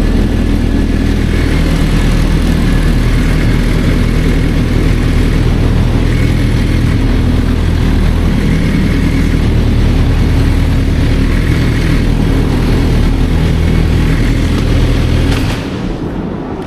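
Motorcycle engine running steadily at close range. Its sound drops near the end.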